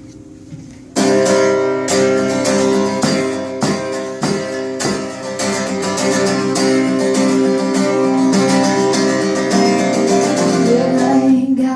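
Acoustic guitar strummed in a steady rhythm, the instrumental intro of a song, starting about a second in.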